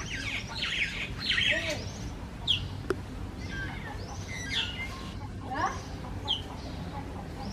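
Small birds chirping at a feeding spot: many short, sharp calls and quick falling notes overlapping throughout, with a single sharp click near the middle.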